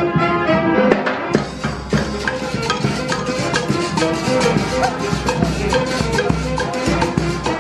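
Murga band music with a steady Latin beat: pitched melody parts over drums and shakers, the percussion filling out about a second and a half in.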